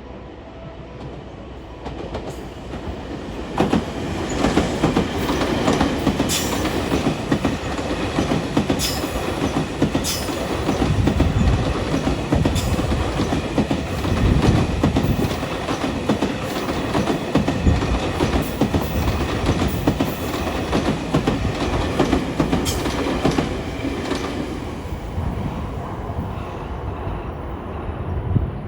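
A long train passing on the rails: the clatter of its wheels builds up after about two seconds, runs on with repeated sharp clicks and some wheel squeal, and eases off near the end.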